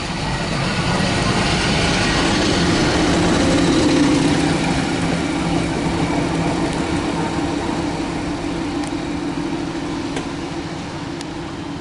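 SM42 diesel-electric shunting locomotive's engine running as it moves during shunting. The sound grows louder over the first few seconds, then slowly fades.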